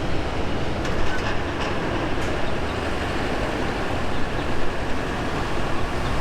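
Auto rack freight cars rolling past on the rails, a steady rumble and rush of steel wheels with a few light clicks in the first couple of seconds.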